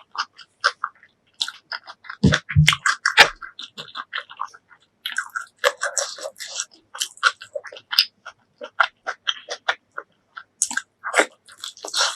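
Close-miked chewing and biting of food: a rapid run of wet mouth clicks and smacks mixed with crunchy bites, pausing briefly twice.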